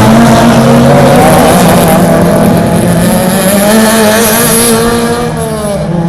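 Racing touring-car engines running at high revs, with their pitch wavering on and off the throttle. Near the end an engine note falls as the revs drop, and the sound eases a little.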